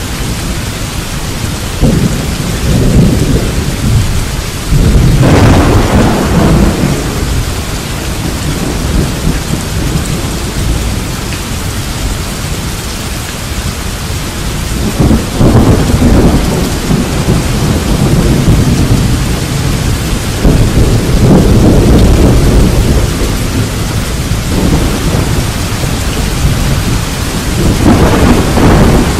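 Thunderstorm: steady rain with several rolls of thunder rumbling over it, the sharpest about five seconds in.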